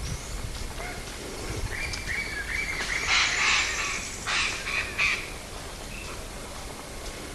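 Wild birds calling: a few short clear whistled notes, then a loud harsh screeching call about three seconds in, followed by two shorter harsh calls.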